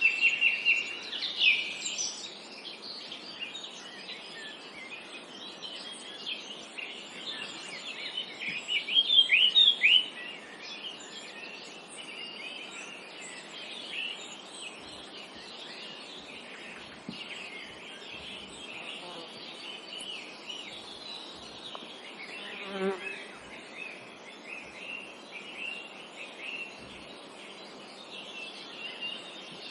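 Several songbirds chirping and singing over a steady hiss of forest ambience, with a loud run of quick falling whistles about eight to ten seconds in.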